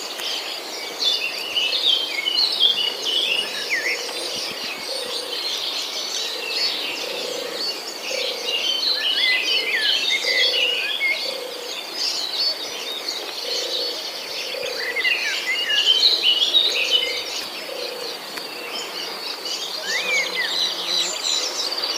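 Many birds chirping and twittering together in a bird park's enclosures, a dense chorus of short high calls. A low note repeats about once a second through most of it.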